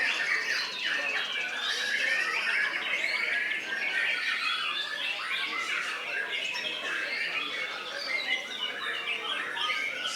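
Caged songbirds at a singing contest, many singing at once: a dense, unbroken tangle of chirps, whistles and squawks.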